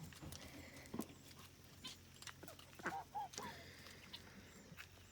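Farmyard poultry calling faintly: a few short calls bunched about three seconds in, among scattered light clicks and rustles.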